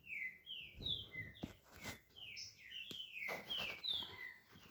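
Green-winged saltator (trinca-ferro) calling with a quick run of short falling whistled notes, several a second, mixed with a few soft knocks.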